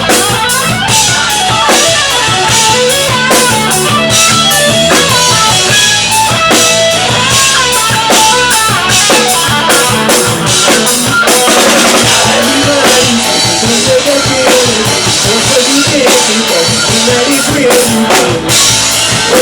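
Live rock band playing a song without singing, the drum kit's kick, snare and rimshots driving a steady beat under a shifting melodic line.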